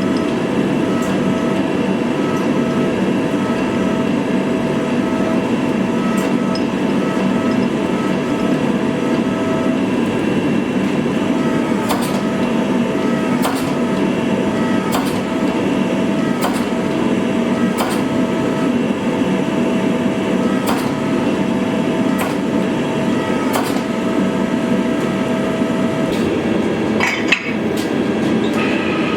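Steady roar of a forge fire and blower with a faint hum, and through the middle a run of single hammer blows on hot steel, about one every second and a half.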